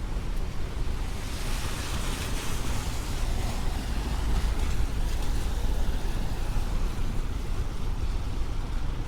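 Street traffic on a wet road: a vehicle's tyres hiss on the wet pavement, swelling from about a second in and fading toward the end, over a steady low rumble of traffic and wind on the microphone.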